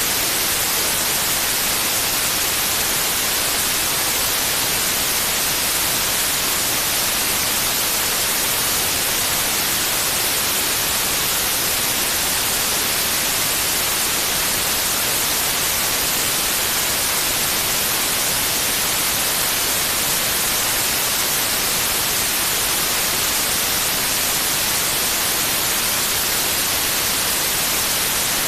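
Steady white noise: an even, unchanging hiss, strongest in the high frequencies, played as a sleep aid.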